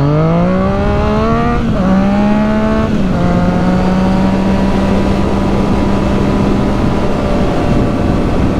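Motorcycle engine accelerating hard, its pitch rising, with upshifts about one and a half and three seconds in, then holding a steady cruising pitch. A steady rush of wind noise runs underneath.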